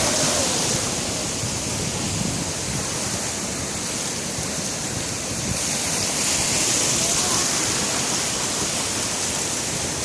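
Sea surf: a steady wash of breaking waves, swelling slightly about six seconds in.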